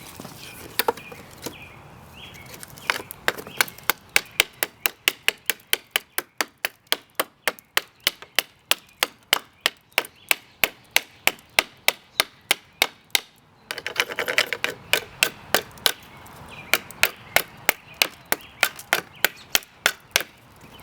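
A railroad-spike knife chopping into a wooden hammer handle, about three to four sharp strokes a second, in two long runs with a short break in between.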